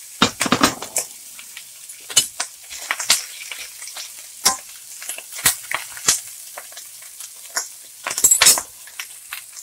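Pork belly pieces frying in a stainless steel pan with garlic and onion: a low sizzle under irregular scrapes and clicks of a spatula stirring them, busiest about half a second in and again near the end.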